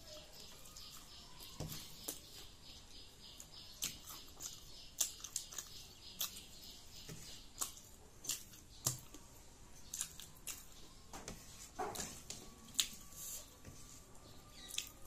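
Close-miked eating sounds: chewing and lip smacks while eating rice and curry by hand, heard as irregular sharp clicks, one or two a second.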